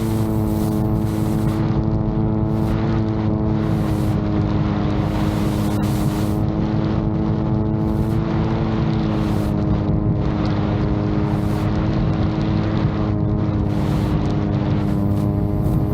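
VTOL drone's propulsion droning at a steady pitch, with wind buffeting the microphone in gusts.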